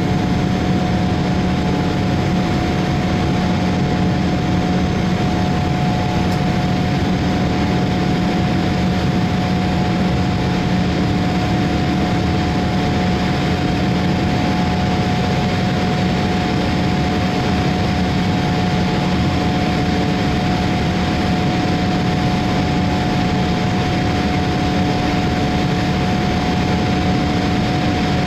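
Boeing 787-8 jet engines (Rolls-Royce) running steadily: an even rushing noise with a constant hum and a steady tone, holding the same level throughout.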